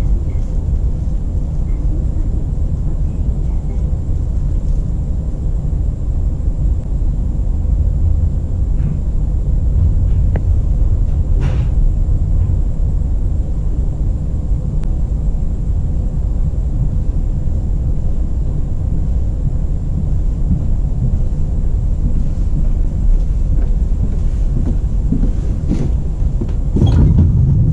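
Steady low rumble and hum inside a JR E233-series commuter car standing at the platform, from its onboard equipment, with a faint constant high whine. A sharp click comes about eleven seconds in, and a few knocks come near the end.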